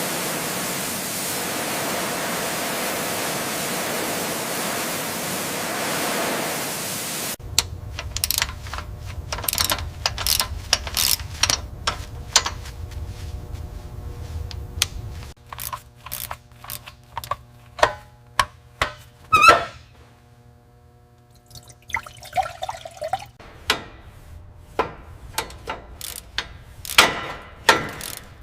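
A steady spraying or blasting hiss for about seven seconds, cut off suddenly, then scattered sharp clicks and knocks of tools working on metal, with one short squeal partway through.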